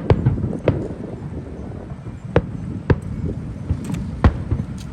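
Fireworks bursting overhead: about half a dozen sharp bangs at irregular intervals over a low background rumble.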